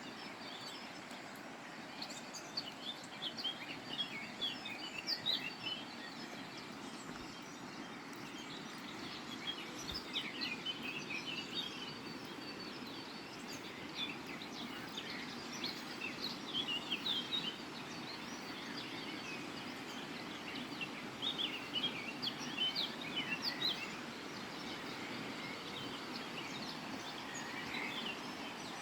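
Dawn chorus: many songbirds singing and chirping at once, in overlapping bursts that swell and ease, over a steady low background hum.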